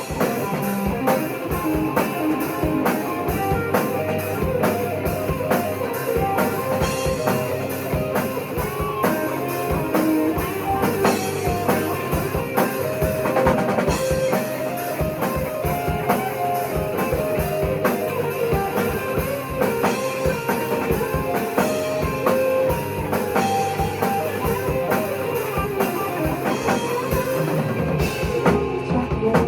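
Rock band playing: lead guitar over a steady drum kit beat.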